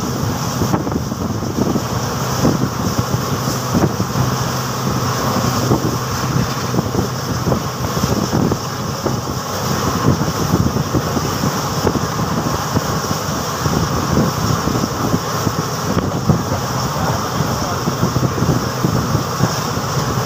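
Passenger train running at speed, heard from an open coach window: a steady rumble and rattle of wheels on the rails, with wind buffeting the microphone.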